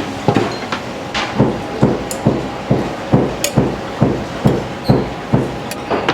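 A steady run of about thirteen dull knocks, a little over two a second, from work in an udon kitchen, over the clatter of the kitchen.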